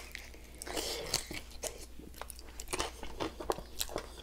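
A person biting and chewing a crispy chicken wing coated in peanut butter and jam, close to the microphone: a run of irregular, short crunches and clicks from the mouth.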